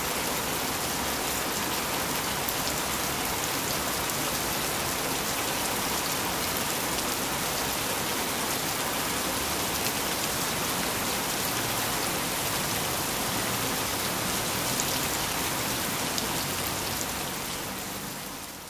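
Rain falling steadily, an even hiss of many drops, beginning to fade out near the end.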